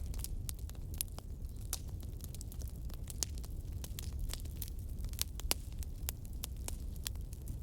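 Bonfire crackling: irregular sharp snaps and pops over a low, steady rumble of burning.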